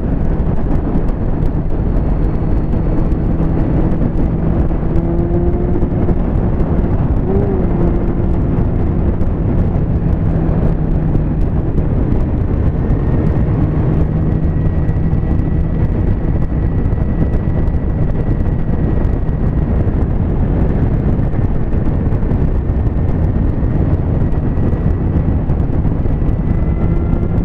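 Motorcycle engine holding a steady tone at cruising speed under a constant rush of wind noise, with a brief wobble in pitch about seven seconds in.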